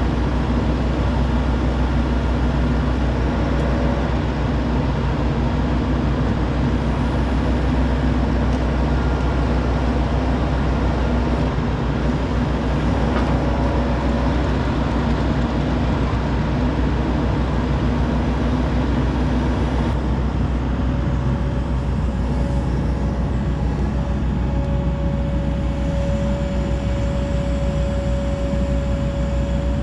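Hitachi 135 excavator's diesel engine running steadily with a deep rumble. A steady higher whine joins about twenty seconds in.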